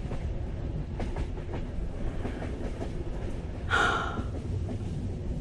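Steady low rumble of a moving train carriage from the inside, with a brief hiss about four seconds in.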